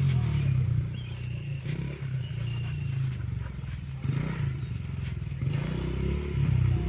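Honda CRF70 dirt bike's small four-stroke single-cylinder engine running at low revs, its speed and loudness rising and falling a little as the throttle is worked gently.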